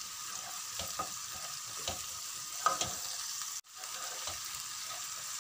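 Chopped garlic, ginger and shallots sizzling in hot oil in a nonstick pan, stirred with a wooden spatula that scrapes and taps against the pan. They are being sautéed until fragrant. The sound cuts out for a split second a little past halfway.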